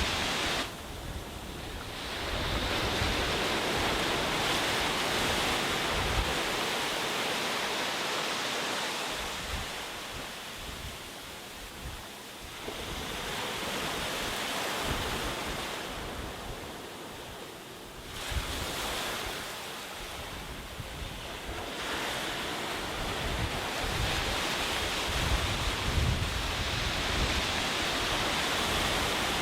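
Sea waves breaking and washing up a beach, the surf swelling and ebbing every few seconds, with gusts of wind rumbling on the microphone.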